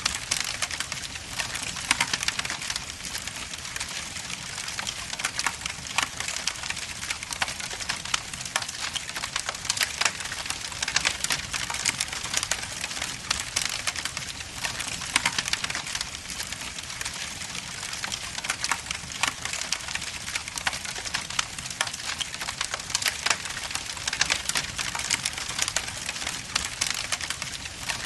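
Wood fire in a fireplace crackling: a steady hiss of the burning logs with a dense stream of small cracks and, every few seconds, a louder pop.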